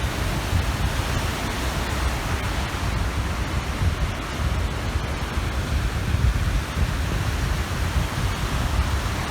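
Waves washing steadily onto a reservoir shore, with wind rumbling on the microphone.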